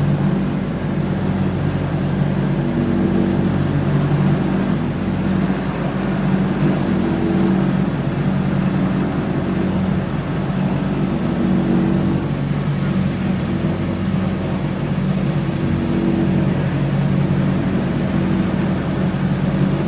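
John Deere X304 lawn tractor's engine running steadily while mowing, its tone wavering slightly every few seconds.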